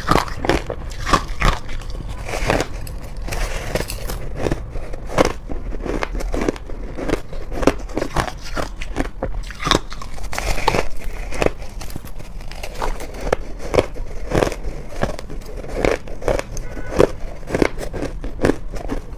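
Close-up biting and crunching of soft, chunky white freezer-frost ice, one crisp crunch after another.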